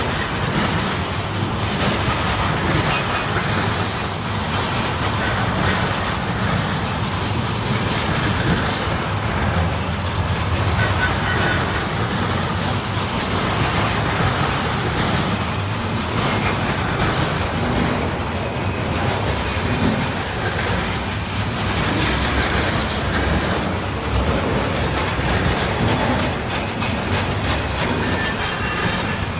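Freight train rolling past, a steady rumble of wagons with wheels clacking over the rail joints.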